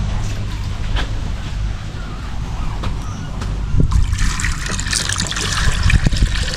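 Water being poured into a pot, starting about four seconds in, over a steady low rumble and a few light knocks.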